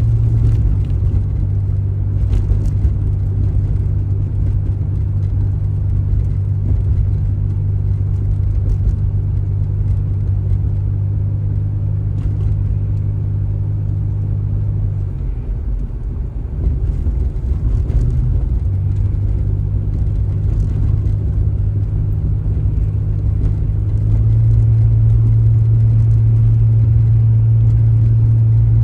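A car driving, with a steady low engine and road drone. It eases off and wavers about halfway through, then grows louder again for the last few seconds.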